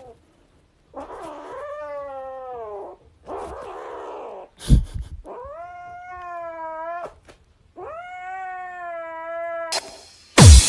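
A domestic cat yowling in four long, drawn-out calls of about two seconds each, with a few loud thumps between the second and third. Music with a heavy beat starts near the end.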